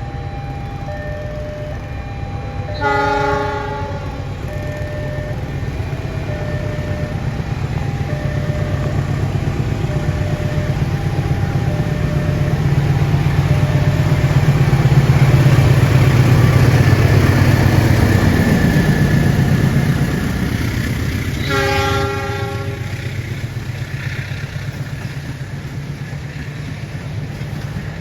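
Train passing at speed over a level crossing: a short horn blast about three seconds in, the rumble building to its loudest midway and then fading, and a second horn blast about three-quarters of the way through. Under the first half, the crossing's warning signal alternates two tones about once a second.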